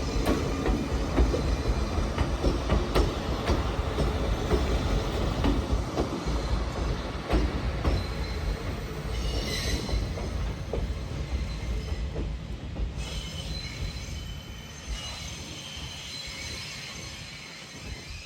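381 series electric train running through a yard, its wheels squealing, with clicks over the rail joints. It fades away over the last few seconds.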